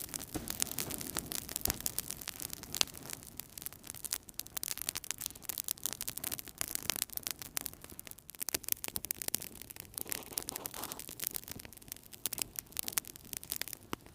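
Wood fire burning in a fireplace, crackling with dense, irregular sharp pops and snaps over a low, soft rumble of flames.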